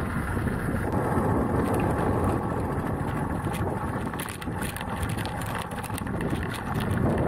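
Beta Alp trail motorcycle's single-cylinder four-stroke engine running while riding, with wind noise buffeting the microphone.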